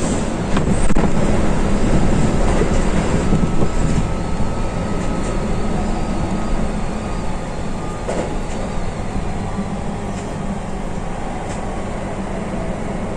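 Keihan limited express electric train running, heard from inside the front car: a steady rumble of wheels on rail with a few faint clicks, a little louder over the first few seconds before easing slightly.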